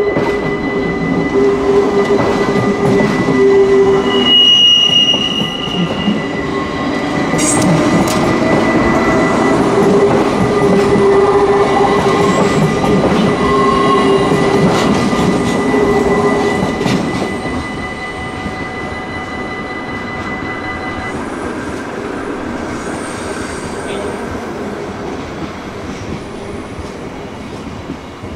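Yellow-and-blue NS electric passenger train passing close by, with wheels clacking and squealing on the rails. It is loudest for about the first seventeen seconds, then drops to a quieter steady rumble, while a double-deck train runs on the far track. A steady high tone runs underneath and stops about twenty seconds in.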